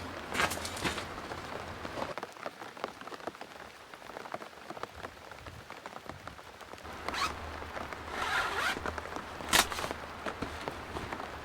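Rain falling steadily, with several short rasping bursts just after the start and again from about seven seconds in, the sharpest a little before the end.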